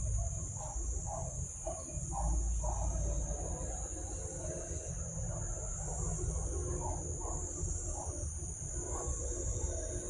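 A steady, high-pitched drone of insects, crickets or cicadas, with a scatter of short lower notes beneath it and a low rumble.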